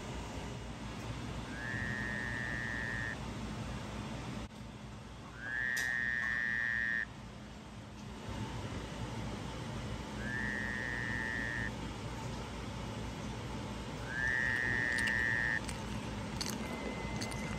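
A high whistle-like tone sounds four times, about four seconds apart; each one slides up briefly and then holds for about a second and a half. Near the end a steady, level tone of the same kind begins.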